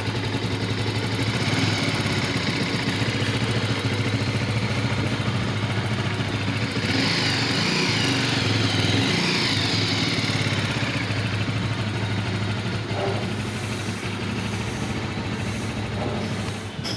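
Bajaj Avenger 220's single-cylinder four-stroke engine running steadily at idle, freshly rebuilt and being run to check whether an earlier engine noise has been cured.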